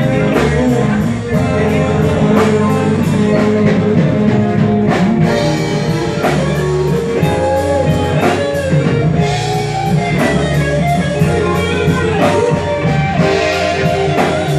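Live band playing a blues-rock instrumental passage: guitar over sustained bass notes and a drum kit keeping a steady beat.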